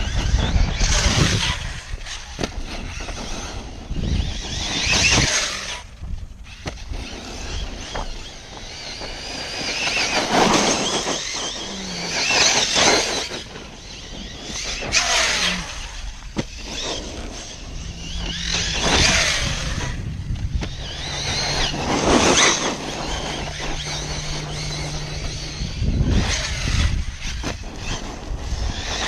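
A 6S brushless electric RC car driving hard over rough ground: its motor whines up and down while the tyres spin and scatter loose dirt, in about eight bursts a few seconds apart. A steady low hum joins in the second half.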